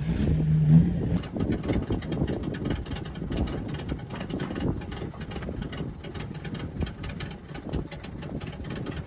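Truck engine idling with an uneven, rough-sounding run. A short pitched tone sounds in the first second.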